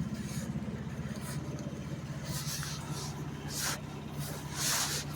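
A motor vehicle's engine idling with a steady low pulsing hum, with a few short hissing rushes over it about halfway through and near the end.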